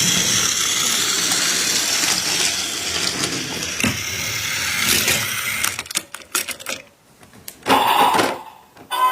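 An engine-like mechanical noise, steady and dense for about five and a half seconds, then breaking up into scattered clicks with a brief near-quiet gap and a short loud burst near the end.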